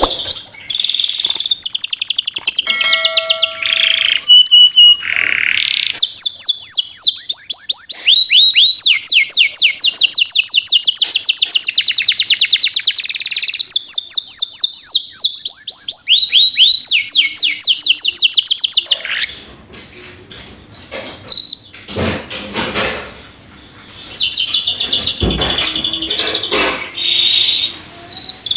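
Canary singing a long, fast trilling song: runs of quick downward-sweeping notes repeated many times a second, changing from phrase to phrase. The song breaks off for a few seconds about two-thirds through, with a couple of low knocks, then starts again.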